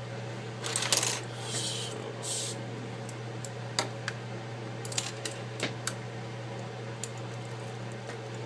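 Light hand-tool work on an opened iPad: small scrapes during the first couple of seconds, then a string of sharp, separate clicks and clinks of metal tools and loose glass fragments against the tablet's frame. A steady low hum runs underneath.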